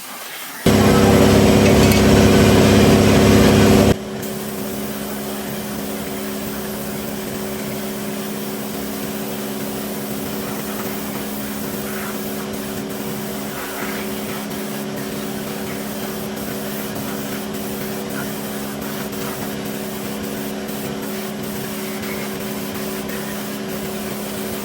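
A power tool's motor running steadily at a constant pitch, much louder for a few seconds just after the start and then settling to a steady hum with a hiss over it.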